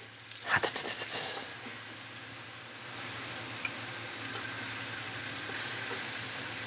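Crickets sizzling in hot vegetable oil in a frying pan, with a few knocks of the pan about half a second to a second in. A louder hiss comes near the end.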